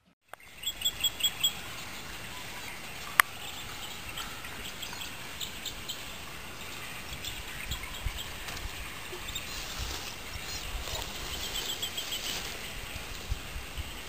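Outdoor ambience: small birds chirping in quick runs of several short notes over a steady background hiss, with one sharp click about three seconds in.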